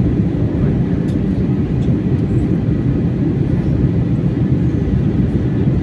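Steady loud drone of a passenger airliner in flight, heard inside the cabin: engine and airflow noise, deepest in the low range, with no change in pitch.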